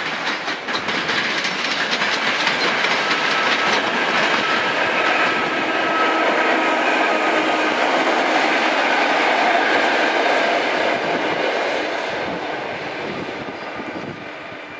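EN57 electric multiple unit passing close at speed: wheels clicking over rail joints and points in the first second, then a loud steady rush of wheels on rail with a faint steady whine as the cars go by, fading away near the end.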